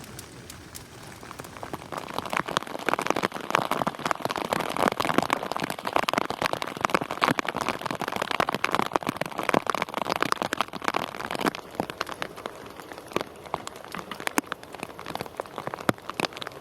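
Heavy rain falling, a dense spatter of drops hitting a surface, heaviest from about two seconds in until about twelve seconds, then easing off.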